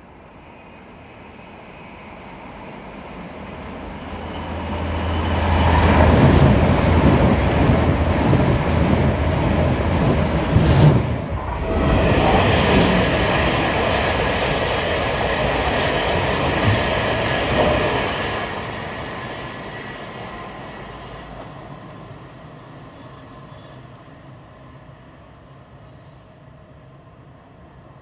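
A train passing on the line: it swells up over several seconds, runs loud for about twelve seconds with a brief dip partway through, then dies away as it recedes.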